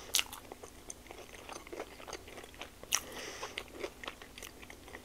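A person chewing a mouthful of blueberry pancake-wrapped sausage close to the microphone: soft wet mouth clicks and smacks, with two sharper clicks, just after the start and about three seconds in.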